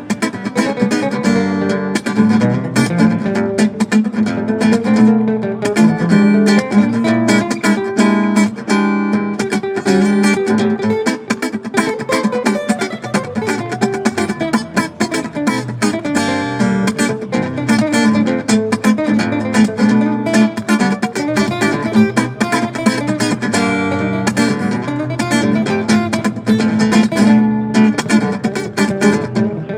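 Guitar playing: a steady stream of quickly plucked notes mixed with strummed chords.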